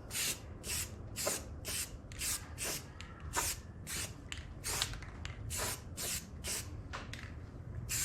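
Aerosol spray paint can hissing in short repeated bursts, about two a second, as paint is sprayed onto a metal part.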